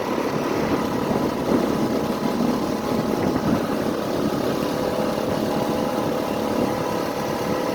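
Small outboard motor running steadily under way, over a steady rush of wind and water.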